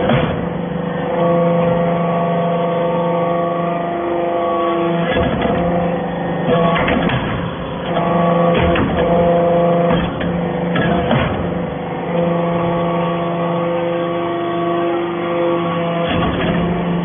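Hydraulic metal-chip briquetting press running: a steady machine hum of several tones that breaks off and returns every few seconds, with sharp metallic knocks at intervals as the press cycles.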